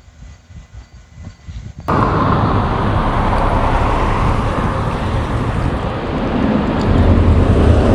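A faint low rumble gives way, at a hard cut about two seconds in, to loud noise of a road vehicle running close by. Its low engine rumble grows stronger toward the end.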